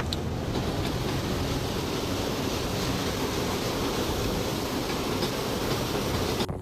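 Blizzard wind making a steady, even rushing noise that cuts off abruptly near the end.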